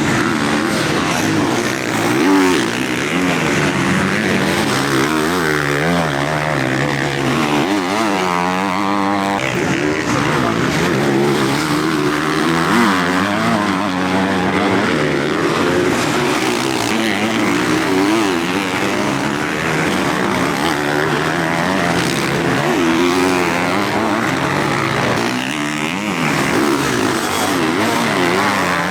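Several motocross bike engines racing on track, revving up and down over one another in overlapping rising and falling pitches.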